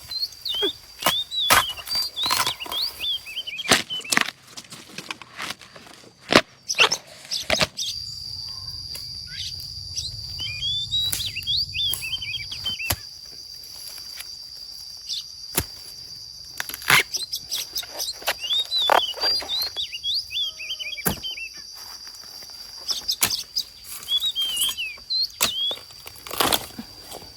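Small birds chirping in short, repeated falling calls, with a steady high insect-like whine through most of the middle. Scattered sharp knocks come and go throughout.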